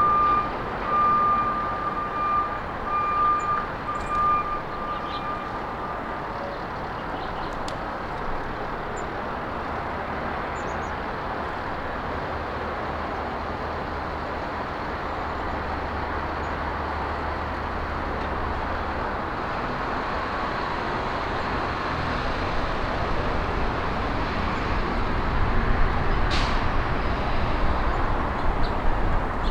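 Steady road traffic noise that grows louder near the end as a vehicle passes. A repeated beeping tone sounds over it in the first few seconds, and a few faint high chirps come through.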